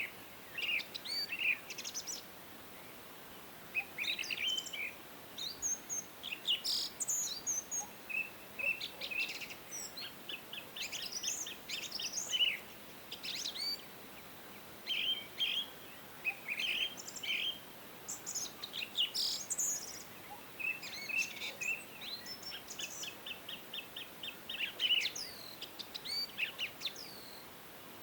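Several songbirds chirping and singing in short, high phrases and trills, overlapping one another, over a faint steady background hiss.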